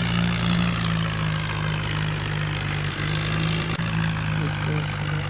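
Mixer machine running with a steady, even drone.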